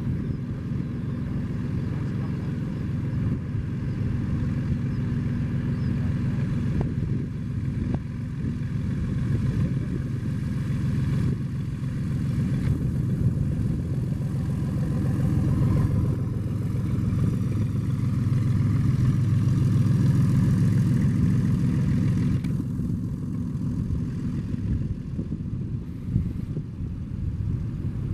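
Cessna 182 single-engine propeller plane's piston engine running steadily. It grows louder to a peak about two-thirds of the way through, then eases off as the plane moves relative to the listener.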